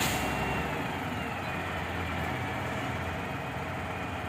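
Delivery truck's engine running steadily while the truck's boom is lowered, with a thin high whine that slides down a little in pitch in the first couple of seconds.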